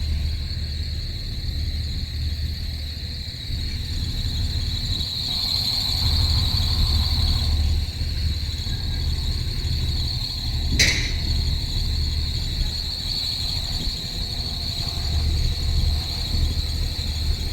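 Night insects chirring in one steady high-pitched band over a low, steady rumble, with a single sharp click about eleven seconds in.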